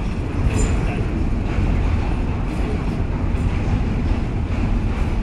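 Electric passenger train running across a steel truss railway bridge: a steady rumble with a few brief high squeaks and clicks from the wheels and track, the clearest about half a second in.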